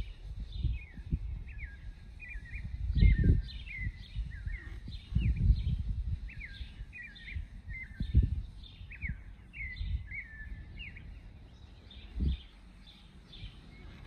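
A bird chirping over and over, a string of short, quickly falling notes two or three a second, which stops about eleven seconds in. Beneath it run low rumbling bursts, the loudest about three, five and eight seconds in.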